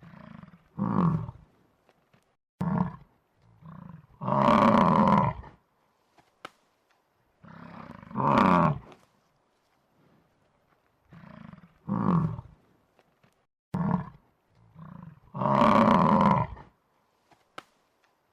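A large animal calling over and over: a series of short calls and longer, louder drawn-out calls, with pauses of about a second between them.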